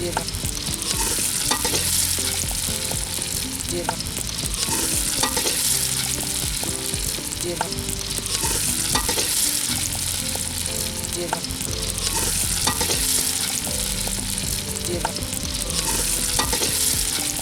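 Khichuri frying and sizzling in a pot while it is stirred, the sizzle swelling every few seconds. Short metallic clicks and scrapes of the stirring spoon against the pot run through it.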